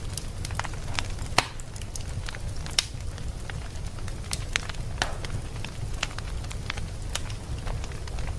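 Fire burning in a fireplace, crackling with irregular sharp pops over a steady low rumble; two pops about a second and a half in and nearly three seconds in stand out as the loudest.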